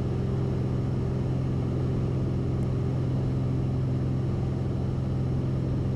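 Cessna 172RG's four-cylinder Lycoming engine and propeller at full climb power, a steady drone heard inside the cockpit.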